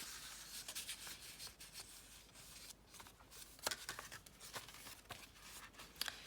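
Faint paper rustling with a few light clicks and taps as the pages of a handmade junk journal are handled and turned.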